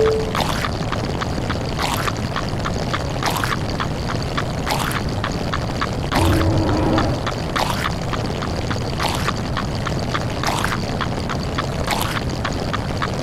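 A dense stack of looped sound effects: a steady pouring-water hiss with short sharp hits about every one and a half seconds, and a brief low doorbell-like tone about six seconds in.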